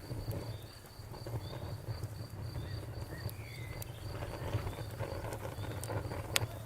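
Campfire crackling: a steady low flame rumble with scattered sharp pops, the loudest near the end. Crickets chirp in an even, repeating pulse behind it.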